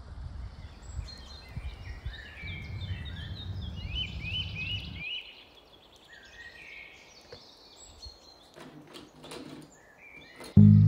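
Songbirds chirping and singing, many short calls and quick rising notes, over a low rumble that stops abruptly about five seconds in. Fewer, quieter bird calls follow. Near the end a loud guitar-led music track starts.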